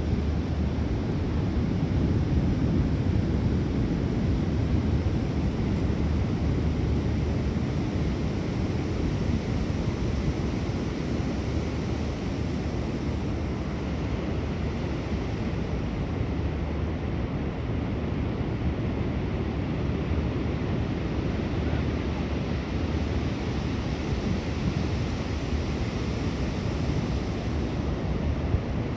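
Wind buffeting the microphone over the steady rush of heavy surf breaking on a rough sea.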